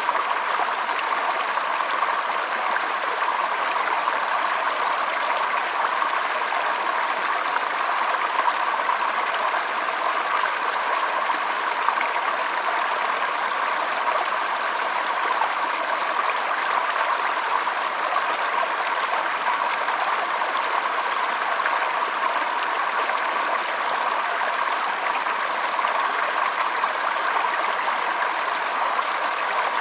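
Shallow stream flowing steadily, a continuous trickling of water with no breaks.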